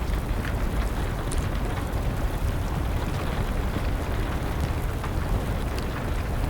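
Wood fire crackling, with scattered sharp pops over a steady low rumble, mixed with a steady hiss of rain.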